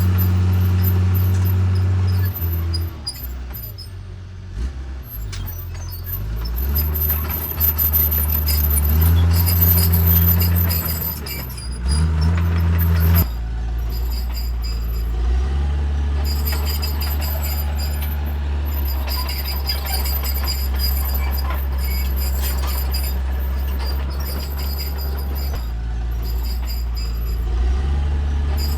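Heavy diesel engine of earthmoving machinery running under load. Its pitch rises and falls several times in the first half, then it runs steadily, with high-pitched squeals and clanks on and off.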